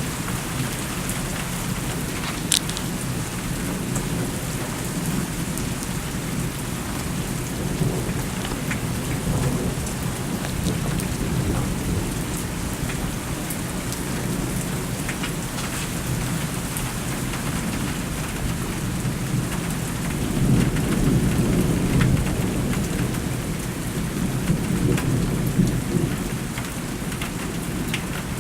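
Thunderstorm: steady rain with rolling thunder rumbling low underneath, swelling louder about two-thirds of the way through.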